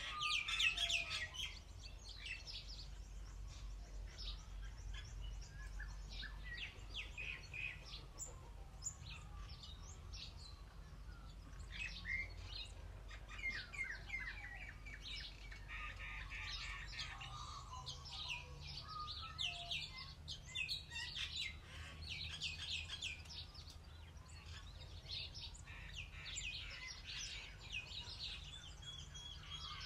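Birdsong: many birds chirping and trilling in a continuous chorus.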